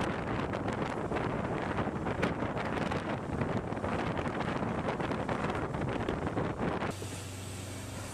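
Wind buffeting the microphone out of a moving train's open window, over the noise of the train running on the track. About seven seconds in it cuts abruptly to a quieter, steady train running sound with a low hum.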